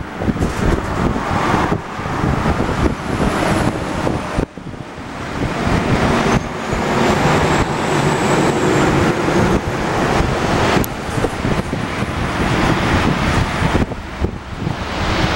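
Boeing 737-800 jet engines running on the landing approach, with a faint high turbine whine that rises and falls in pitch, under heavy wind rumble on the microphone.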